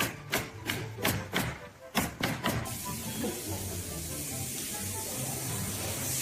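A run of sharp knocks, about three a second, that stops after two and a half seconds and gives way to a steady hiss, over background music.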